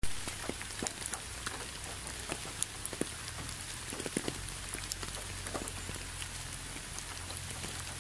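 Steady rain falling, an even hiss dotted with many separate drops tapping close by, over a low steady rumble.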